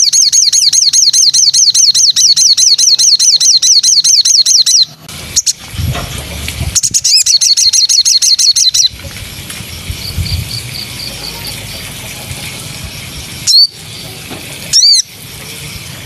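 Songbird singing a rapid trill of repeated high sweeping notes, about seven a second, in a long run and then a shorter one. Softer trills follow, with two loud downward-sweeping whistles near the end.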